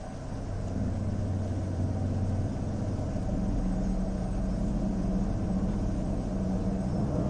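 Dark ambient background music: a low, steady rumbling drone of held bass tones.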